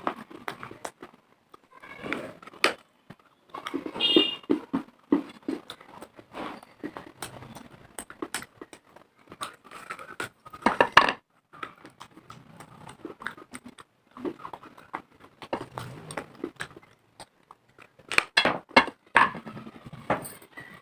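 A person biting and chewing hard, dry pieces of earthenware clay, giving irregular sharp crunches and crackles with short pauses between bites. The loudest clusters come a few seconds in, around the middle and near the end.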